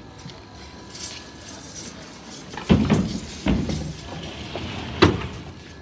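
Several sharp knocks over steady background noise: a cluster of three a little under three seconds in, and a single louder one about five seconds in.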